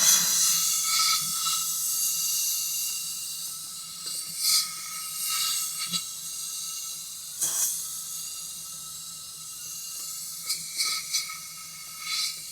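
Compressed-air gun hissing as it blows petrol through a car's coolant expansion tank to flush out leftover oil, with several louder surges of air, over a steady low hum. The hiss stops abruptly at the end.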